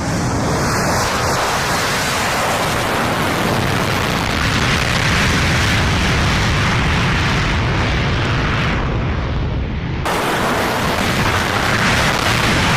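F-35A Lightning II's F135 turbofan jet engine at takeoff power, a loud, steady rush of noise from deep rumble to high hiss. The hiss thins out and then returns abruptly about ten seconds in.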